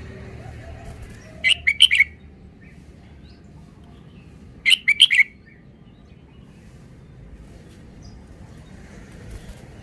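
Red-whiskered bulbul singing two short phrases of about four quick notes each, a few seconds apart.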